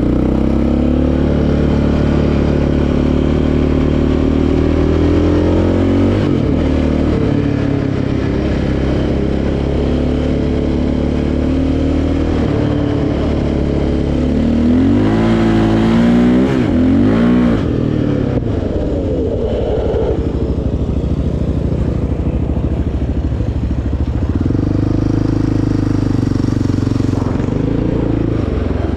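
Sport quad's single-cylinder four-stroke engine running on a trail ride, the revs rising and falling with the throttle, with a sharp burst of revs a little past halfway.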